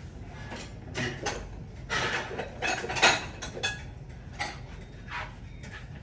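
Kitchen utensils clattering and scraping against pots and dishes: a run of irregular knocks, busiest in the middle.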